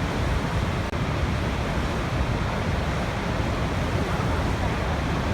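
Waterfall: a steady, deep rush of falling water with no let-up, broken only by a momentary dropout about a second in.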